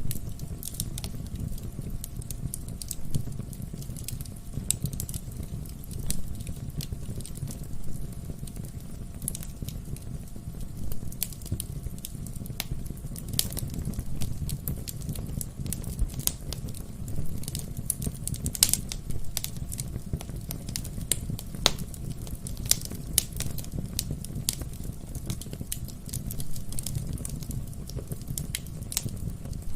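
Wood fire burning in a fireplace: the steady low rumble of the flames with irregular crackles and snaps from the burning logs, a few of them louder pops.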